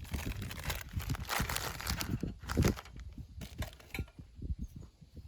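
Rustling and crinkling handling noise, dense for the first three seconds, then thinning to scattered light clicks and knocks.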